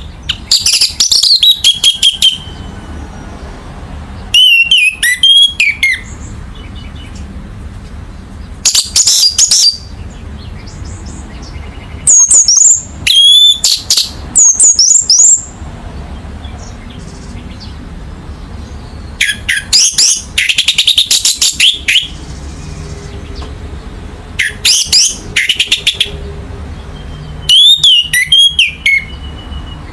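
Orange-headed thrush singing: loud phrases of rapid, varied whistled notes that sweep up and down. The phrases come in about seven bursts of one to three seconds each, with pauses of a few seconds between them.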